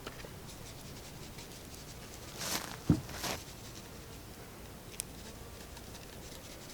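Brief handling noises: two short rustling shakes with a sharp knock between them about three seconds in, and a faint click near the end.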